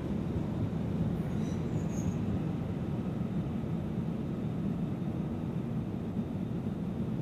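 Passenger train running out along the platform and away down the track: a steady low rumble of wheels on rail, with a few faint, brief high squeals about one and a half to two seconds in.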